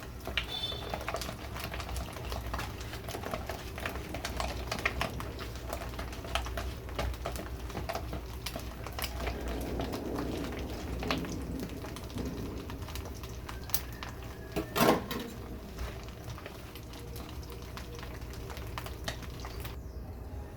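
A utensil clicking quickly and unevenly against a bowl as a coating of mayonnaise, cornmeal and egg is mixed, with one louder knock about fifteen seconds in. A low steady hum runs underneath.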